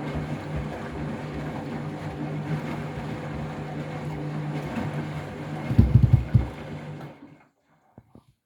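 Washing machine motor turning the drum, a steady hum with a churning wash, and a burst of heavy thuds about six seconds in as the laden drum tumbles the bath mat. The motor then stops, followed by two faint clicks.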